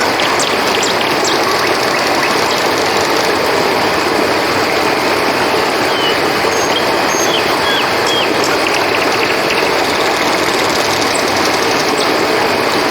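Steady rush of flowing river water under a constant high trill of night crickets. A few short chirps come about halfway through.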